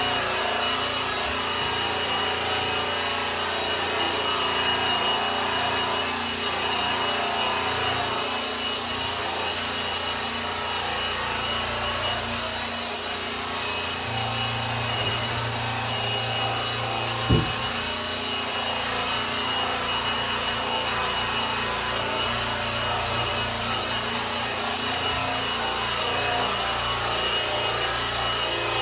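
Electric polisher running steadily, its pad rubbing and buffing the grand piano's finish with a constant motor hum. A single brief thump comes about seventeen seconds in.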